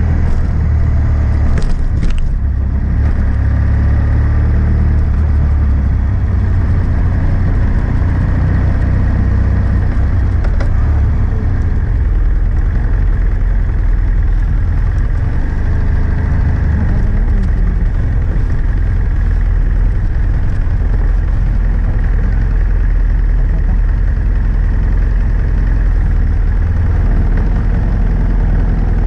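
BMW F800S parallel-twin engine running through a GPR Furore aftermarket exhaust with its dB-killer fitted: a deep, fairly steady exhaust note that shifts only slightly in pitch now and then.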